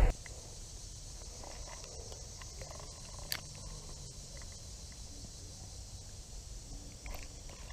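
Faint outdoor background noise with light rustling or footstep-like handling sounds, and a single sharp click a little over three seconds in.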